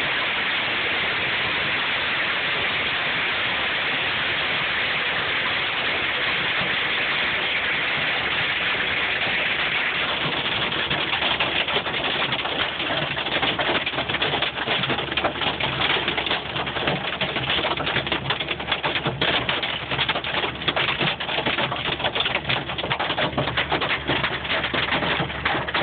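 Hail storm: a steady rain-like hiss that, about ten seconds in, turns into a dense, uneven clatter of hailstones striking, growing heavier toward the end.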